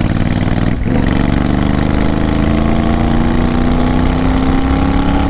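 Royal Enfield Continental GT 650's 648 cc parallel-twin engine running loud and raw with its silencers removed, as the bike is ridden. About a second in there is a brief break in the sound, then the revs climb steadily for the next four seconds.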